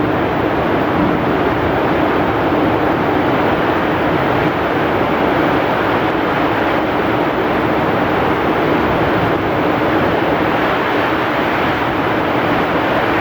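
Heavy rain pouring with strong wind: a dense, steady roar with no breaks or single drops standing out.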